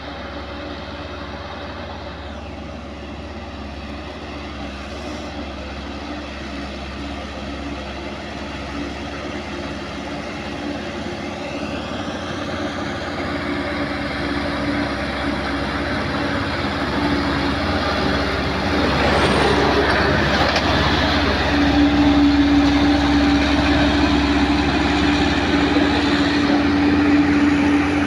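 An old truck's engine labouring up a steep climb, growing steadily louder as it comes closer, with a strong steady hum in the last few seconds.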